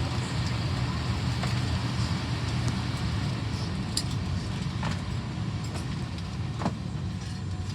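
Steady low hum inside an Airbus A319 passenger cabin, the aircraft's air systems running, with a few faint clicks and knocks.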